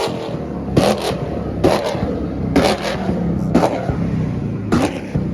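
Car engine running with a string of sharp exhaust pops, about one a second, over its steady drone.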